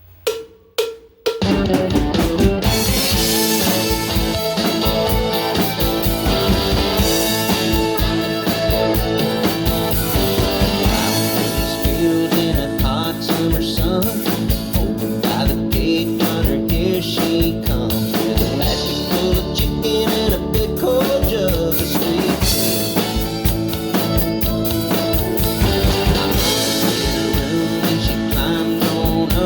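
Drum kit played along to a country song with singing, guitar and bass. A few sharp hits in the first second lead into the full band, with a steady beat from then on.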